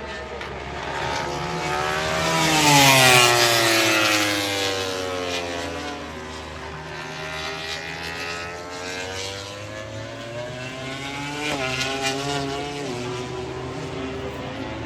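MotoGP race bike passing at speed. Its multi-cylinder engine note is loudest about three seconds in and falls in pitch as it goes by. Another bike passes about eleven seconds in, its engine pitch jumping in steps.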